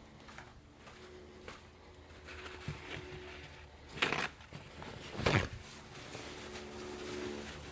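Quiet hand-work noise in an engine bay: faint rustling and two sharp clicks of metal tools or parts, a little over a second apart, past the middle.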